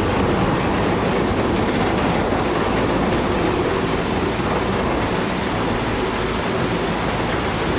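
A loud, steady rumbling noise with no clear beat or separate impacts.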